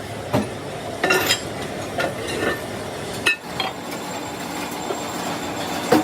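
Irregular metal clanks and knocks, some ringing briefly, over a steady workshop machine noise: heavy steel rim stock being handled and struck.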